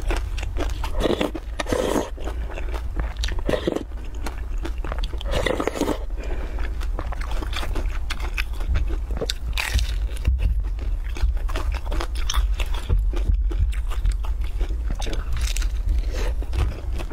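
Close-up eating sounds: a person chewing and biting into pan-fried flatbread, with many small irregular crackles and clicks and a few louder bites, over a steady low hum.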